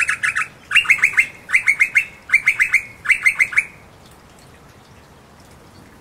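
Noisy miner calling in five quick bursts of rapid repeated chirping notes over about three and a half seconds: one of its gentler calls or songs.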